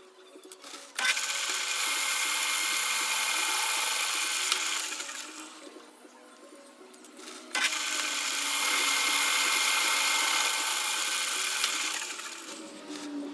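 A power tool run twice, each time for about four seconds: it starts abruptly, runs steadily, then winds down after release.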